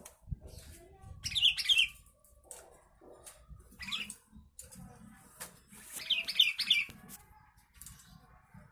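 Sooty-headed bulbul (kutilang) singing: three short warbled phrases about two seconds apart, the last one the longest, over a faint low rumble.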